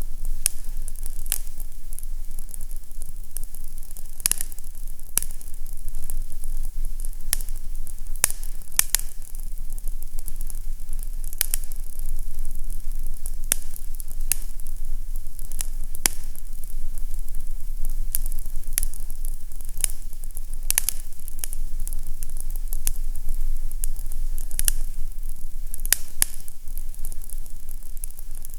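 Fireplace fire crackling: irregular sharp pops and snaps over a steady low hum.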